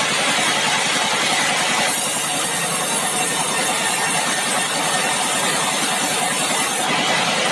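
Sawmill machinery engine running steadily. From about two seconds in until near the end the sound turns brighter and more hissing.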